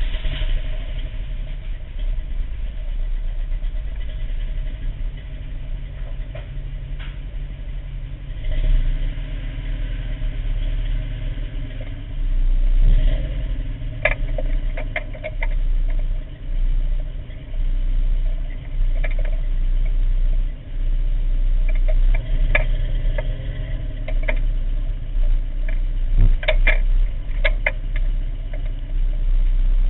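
Toyota 22RE four-cylinder engine idling roughly and misfiring, its note dipping and surging unevenly, with a few sharp clicks. The misfire comes from antifreeze burning past a cheap head gasket and a cracked head, which fouled the spark plugs.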